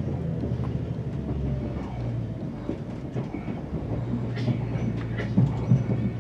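Passenger train running, heard from inside a carriage: a steady low hum with clacks and knocks from the wheels over the rail joints, which come more often near the end.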